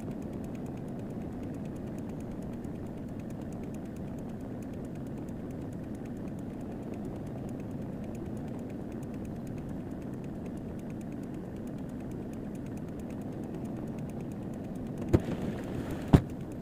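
Steady low rumble of a car idling, heard from inside the cabin, with two sharp knocks about a second apart near the end.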